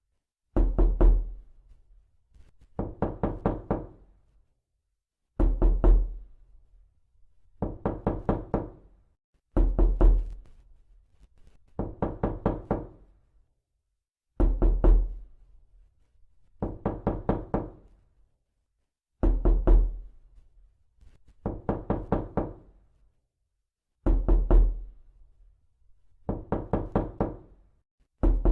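Knuckles rapping on a door in quick bursts of four to six knocks, a fresh burst about every two seconds, some with a deep hollow thud.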